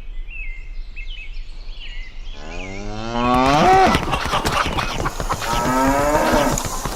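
Cattle mooing: a long drawn-out moo rising and then falling in pitch begins about two and a half seconds in, and a second moo follows near the end.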